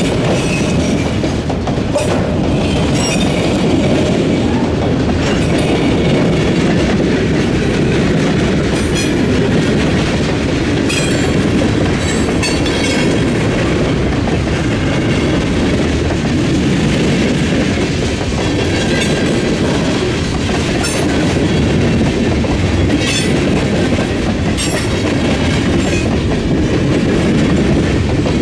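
Freight train rolling through a railroad diamond crossing: a steady rumble of wheels on rail, with sharp clacks every second or two as the wheels strike the crossing's gaps and joints.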